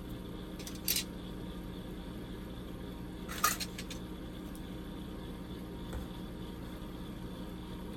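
Steady low electrical-sounding hum, with two brief light scratches or clicks from small hobby tools being handled, one about a second in and a louder one about three and a half seconds in.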